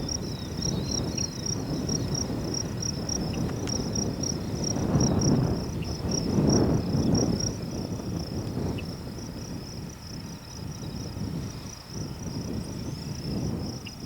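Insects chirping in a steady, evenly pulsed high-pitched trill, over a low rumble that swells twice, about five and seven seconds in.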